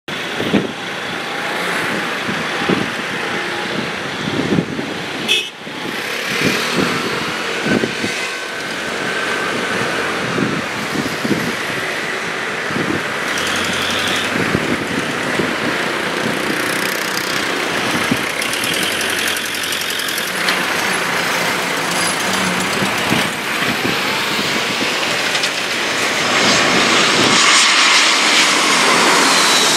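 Airbus A321-231 airliner's IAE V2500 jet engines running, a steady rushing noise that grows louder in the last few seconds.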